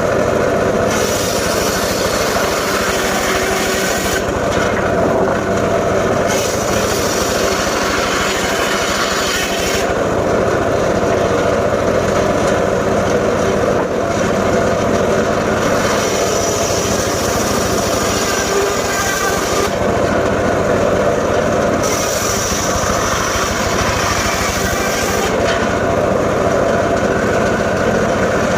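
Engine-driven saw running continuously while cutting wood: a steady engine drone, with a high hiss that swells and drops back every few seconds as the blade bites into the timber and eases off.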